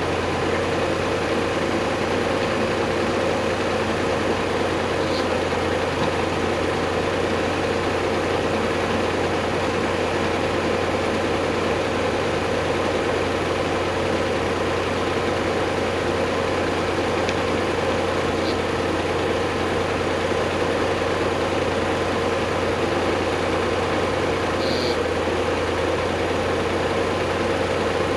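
A heavy engine running steadily at one constant speed, with no revving.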